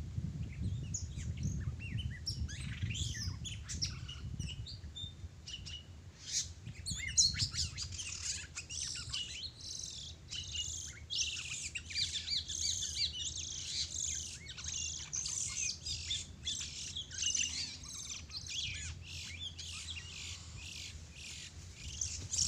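Small birds chirping and twittering rapidly, with many short calls overlapping. The calls become busier and more continuous about seven seconds in.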